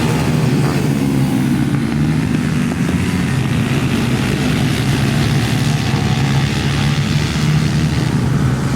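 Pit-bike motorcycle engines running steadily, a continuous engine drone with little change in pitch.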